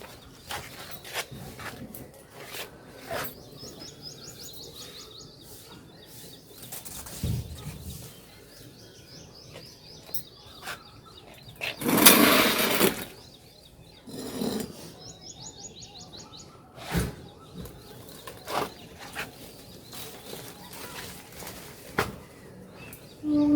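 Small birds chirping in quick high runs several times, with scattered knocks and clicks and one loud rustling, scraping burst about halfway through.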